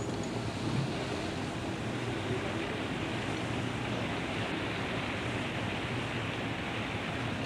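Steady wind and sea noise, an even, unbroken rush.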